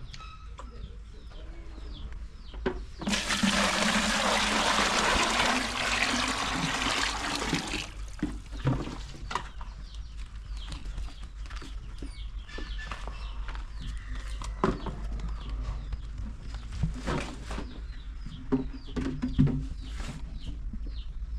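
A rush of water being poured or splashed for about five seconds, starting about three seconds in. Then scattered knocks and clicks, with chickens and small birds calling.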